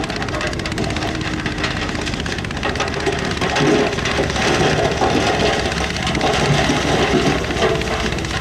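Diesel engine of heavy earthmoving equipment working, a steady loud engine noise that gets a little louder about three and a half seconds in.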